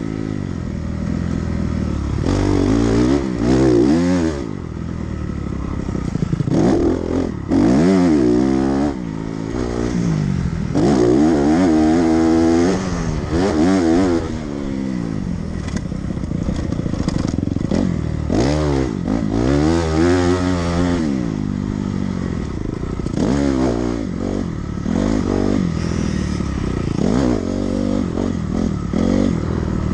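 Dirt bike engine being ridden hard, its pitch climbing and dropping again and again every second or two as the throttle is opened and closed through the track.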